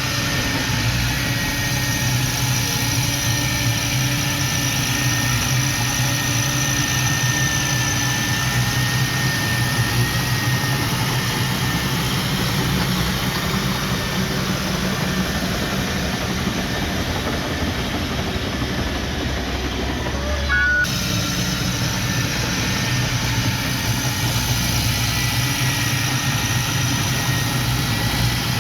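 Heavy-equipment diesel engine running steadily with a thin high whine over it. The sound jumps briefly about two-thirds of the way through.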